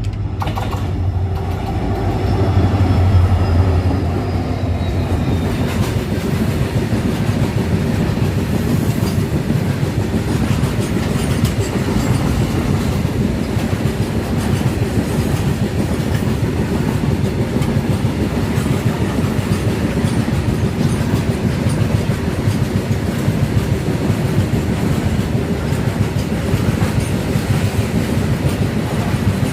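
Indian Railways passenger train running on the line: a steady rolling rumble of wheels on rails, a little louder a few seconds in.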